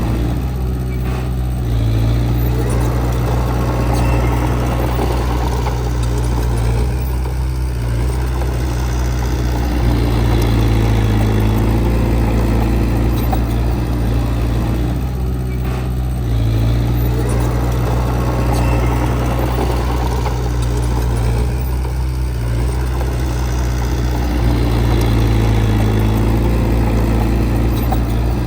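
Heavy earthmoving machine's diesel engine running steadily, its note swelling and easing in cycles several seconds long as the load changes.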